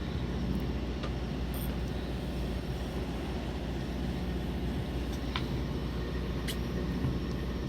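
Fishing boat's engine running with a steady low drone, with a few faint clicks over it.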